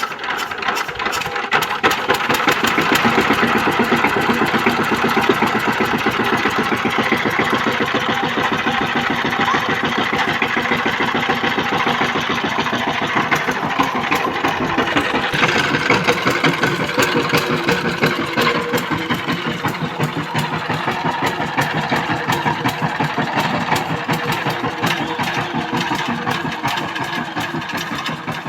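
Walk-behind power tiller's single-cylinder diesel engine running with a fast, even chugging beat.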